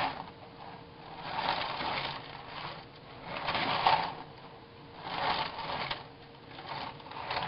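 Rotor of a homemade permanent-magnet motor turned by hand, giving short clattering mechanical rattles about every second and a half. The rotor turns only on momentum and does not keep itself going.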